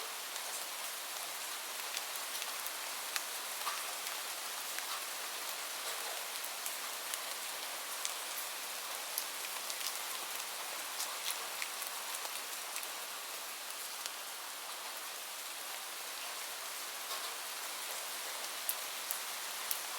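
Steady rain falling, an even hiss with many small sharp clicks scattered through it.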